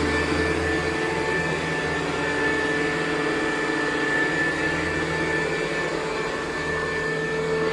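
Hoover U4007 vacuum cleaner running on carpet, a steady motor whine with the 4-row brushroll turning. A deep hum drops away about a second in.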